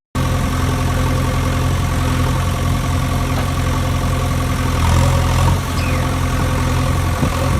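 A vehicle engine idling steadily, swelling slightly about five seconds in.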